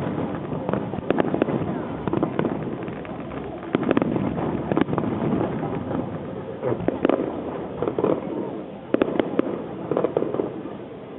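Aerial fireworks going off in quick clusters: sharp bangs and crackling reports over a constant low rumble of bursts, thinning out near the end. People's voices can be heard in between.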